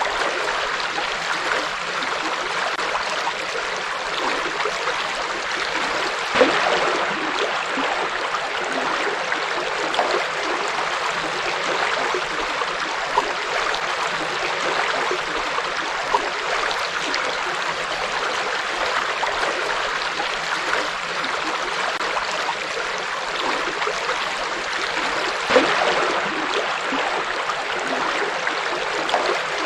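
Forest river flowing, a steady rushing of water with small gurgles, and a slightly louder splash about six seconds in and again near the end.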